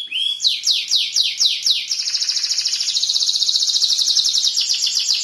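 Domestic canary singing: a run of quick downward-sliding whistles, then a long, fast, high trill.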